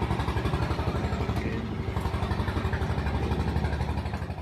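Motorboat engine running steadily with a fast, even pulsing beat, loud and close, dropping away right at the end.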